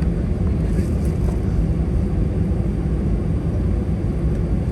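Steady engine and airflow noise inside the cabin of an Airbus A319 airliner, a dense low rumble with no breaks.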